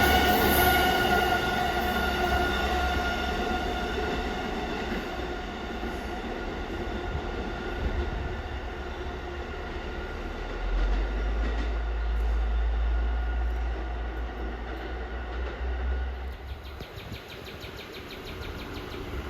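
New York City subway train moving away on the BMT Brighton Line, its sound fading gradually. Steady high-pitched wheel squeal rings over the running noise, with a low rumble in the second half.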